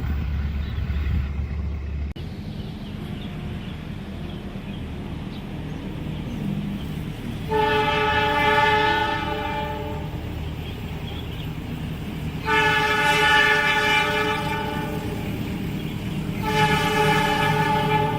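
Locomotive horn sounding three long blasts, each about two seconds and a chord of several notes, over the low rumble of an approaching train.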